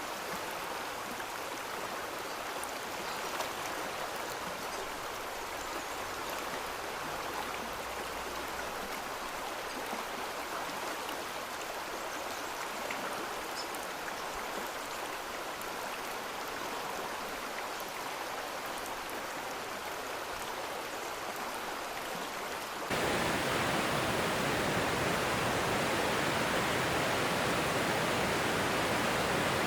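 Steady rush of a flowing stream. About three-quarters of the way through it turns abruptly louder and fuller, as if heard much closer to the water.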